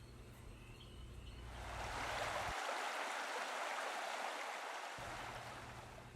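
Rushing water, as of a stream or spring, swelling up about a second in and fading away again near the end.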